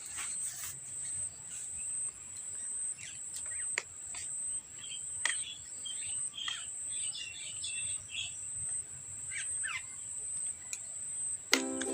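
Insects trilling in a steady high-pitched pulsing drone, with birds chirping over it, most busily in the middle. Music comes in near the end.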